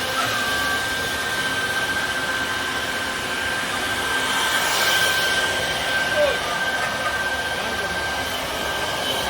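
CNC router spindle running steadily with a constant high whine as it carves wood.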